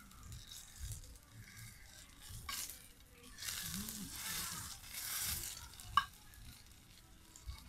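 Food frying in hot oil, sizzling in swells that come and go, with one sharp click about six seconds in.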